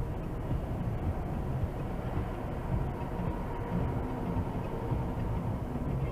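A Dodge Dart cruising at highway speed, around 80 mph: a steady low rumble of road and wind noise with no sharp impact.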